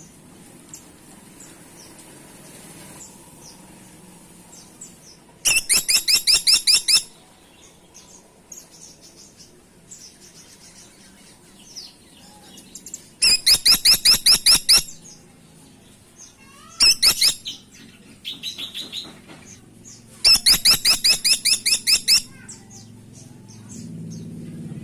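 Caladi tikotok woodpecker calling: four loud bursts of rapidly repeated high-pitched notes, each a second or two long, with faint chirps between them.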